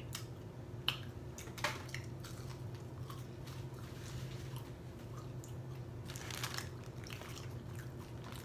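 Close-up chewing of french fries, with two sharp crunches in the first two seconds and a spell of paper rustling about six seconds in, over a steady low hum.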